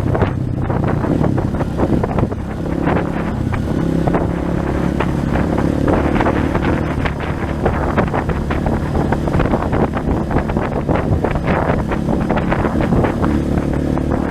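A 230 cc trail motorcycle's engine running steadily while riding, with heavy wind buffeting on the microphone.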